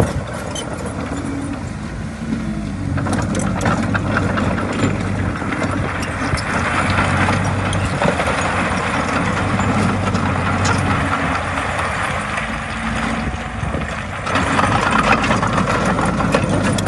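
Komatsu D20A bulldozer's diesel engine running steadily while the machine pushes soil, with scattered light clanks over it. The engine gets louder about fourteen seconds in.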